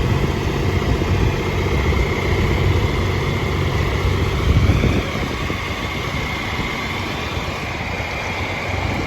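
Vintage tractor engine running steadily, dropping to a lower, rougher level about five seconds in.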